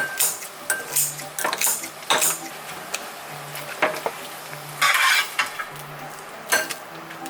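Dishes and metal utensils clinking and clattering with kitchen handling, in many sharp separate knocks, with a louder rushing noise for about half a second around five seconds in.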